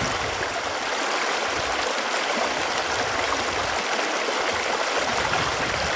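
Running water flowing steadily, an even rushing and trickling without breaks.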